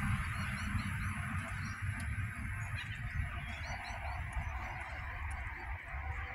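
A 4000 Class electric train rumbles as it pulls away, fading slowly, while small birds chirp over it. The sound cuts off abruptly right at the end.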